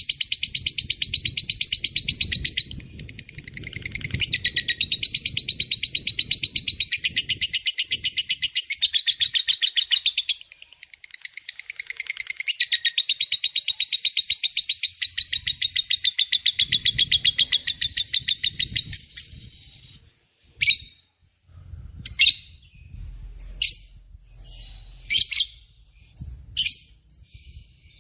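Lovebird chattering in its long 'ngekek' song: long runs of rapid, high-pitched trilling, broken by short pauses. From about two-thirds of the way in, it gives way to a handful of separate sharp chirps.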